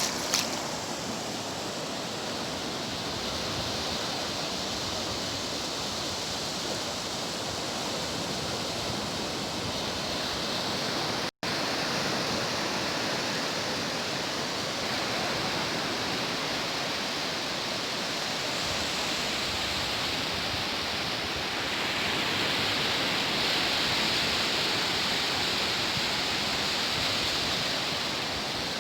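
Sea surf washing on a beach: a continuous, even hiss of breaking waves, swelling a little about two-thirds of the way through. The sound cuts out for an instant at about 11 s.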